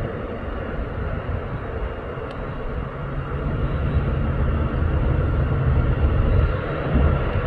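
Two diesel locomotives at the head of an approaching Union Pacific freight train rumbling steadily, growing louder from about three seconds in.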